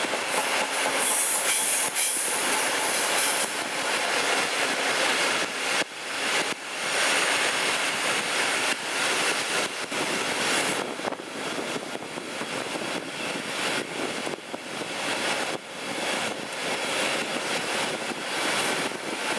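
Two-coach train hauled by a DB class 218 diesel locomotive, heard from an open coach window on a curving line: a steady rush of wheels on rail with repeated clicks, and a high wheel squeal on the curve about a second in.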